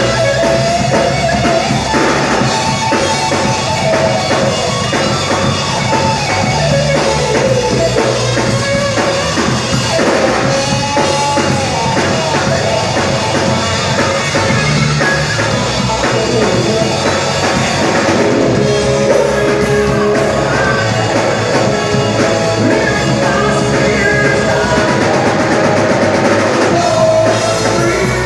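Live rock band playing: electric guitar, bass and a drum kit, with a lead line bending in pitch over the band.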